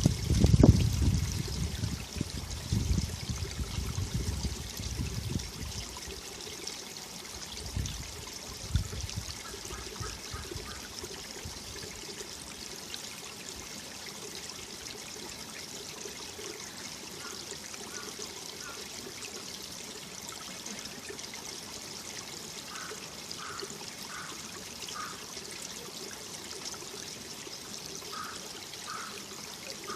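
Mountain valley stream flowing and trickling over rocks in a steady rush of water. A loud low rumble at the start dies away over about six seconds, with two short thumps around eight and nine seconds. Later, faint short high notes come in small groups.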